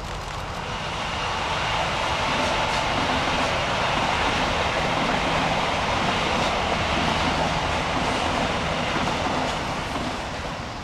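ETR 1000 Frecciarossa 1000 high-speed electric train passing: a steady rush of wheels on rail and air that builds over the first couple of seconds, is loudest in the middle as the train goes by, and fades near the end.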